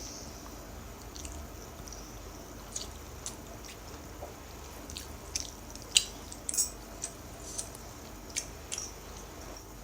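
Eating spicy ramen noodles: scattered short, wet chewing clicks and smacks, the loudest about six seconds in.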